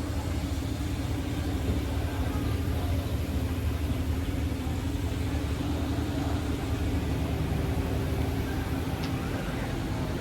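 Steady low rumble of a car engine with an even hum, unchanging throughout.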